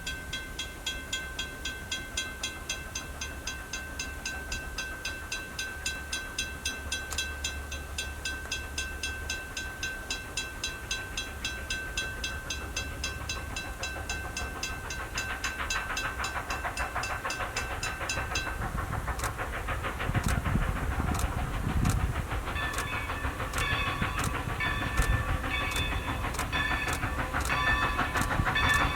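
A steam train drawing closer, its rumble and hiss growing louder, while a bell rings steadily at about two or three strokes a second. About two-thirds through, the ringing changes to a different set of tones.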